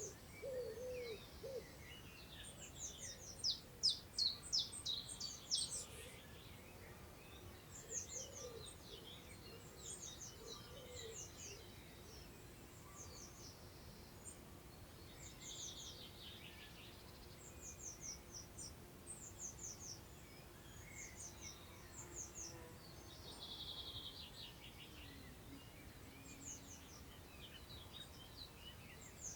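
Wild birds singing: repeated short phrases of quick, high, downward-sweeping notes every few seconds. Low hooting or cooing notes come near the start and again about 8 and 11 seconds in, over a faint outdoor background.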